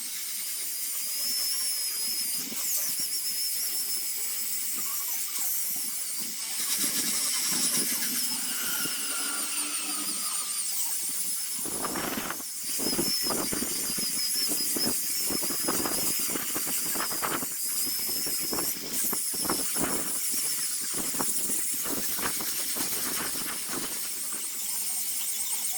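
A high-speed power carving tool whines steadily while shaping wood. From about halfway in it bites repeatedly into the wood in rough, irregular strokes.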